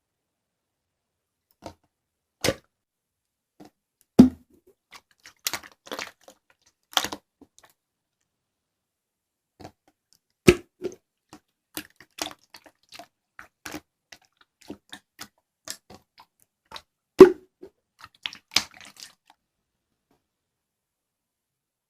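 Slime being squeezed and poked by hand, giving irregular sticky pops and clicks, with the loudest pops about four, ten and seventeen seconds in.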